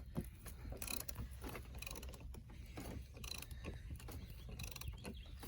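A jack being worked to lift a heavy wooden step, giving a steady series of short mechanical ratcheting clicks.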